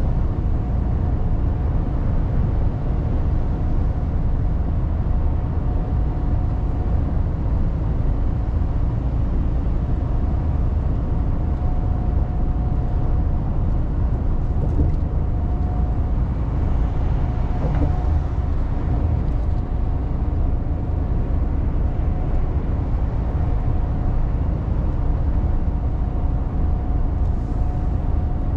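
Mercedes Actros truck on the move, heard from the cab: a steady low engine and road rumble with a faint constant whine above it.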